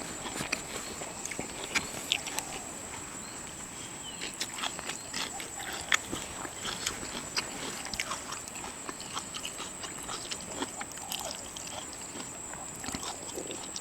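Dogs eating bread: irregular wet chewing and smacking with small clicks, under a steady high whine.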